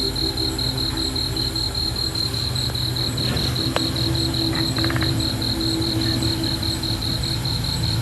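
Cricket chirping steadily in a fast, even pulse of about five chirps a second, over a low steady hum.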